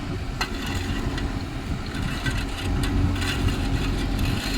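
CAT excavator's diesel engine running steadily, with a few sharp metallic clicks.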